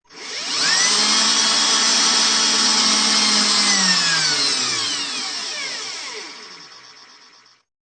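Power drill starting up with a rising whine, running steadily for about three seconds, then winding down in falling pitch as the motor coasts to a stop near the end.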